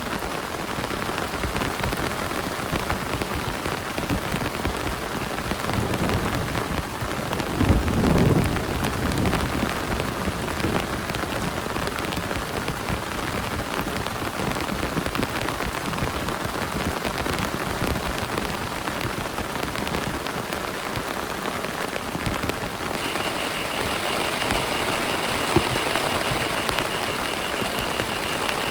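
Heavy rain falling steadily on a plastic tarp, a dense hiss of drops. About eight seconds in comes a short low rumble that falls in pitch, and a faint steady high tone joins in the last few seconds.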